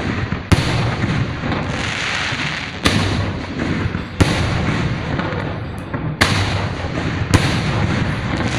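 Aerial fireworks display: five sharp bangs of shells bursting, a second or two apart, over a continuous crackling hiss.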